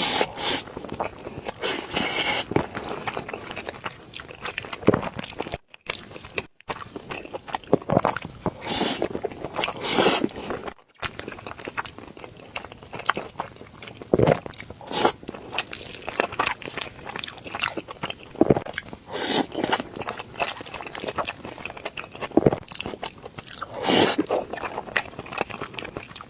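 Close-miked eating sounds: a person chewing and crunching mouthfuls of a rice dish in irregular bites, with short clicks and crunches. The sound cuts out briefly twice.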